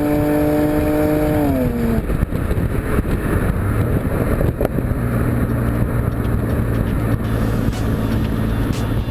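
BMW E90 328xi's straight-six running through a BMW Performance exhaust, holding a steady high-rev note that falls in pitch about a second and a half in as the revs drop, then settling into a lower steady drone with road noise.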